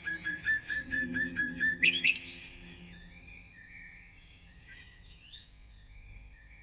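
Birdsong: a bird repeats a short whistled note about five times a second for nearly two seconds and ends the phrase with a quick rising note. Fainter twittering follows.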